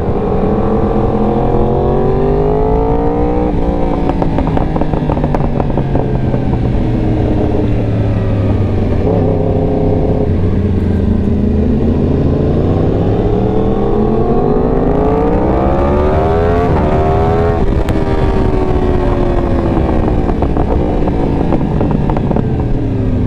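Motorcycle engine, the rider's own 2018 Yamaha R1 with a Competition Werkes exhaust, running under way. Its pitch climbs and drops several times as it accelerates, shifts and slows. It is heard from a helmet-mounted mic with steady wind rush.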